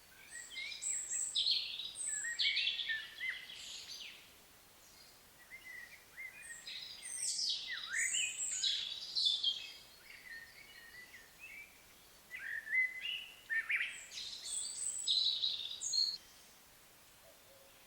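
A songbird singing three varied phrases of quick high notes, each lasting about three seconds, with short pauses between them.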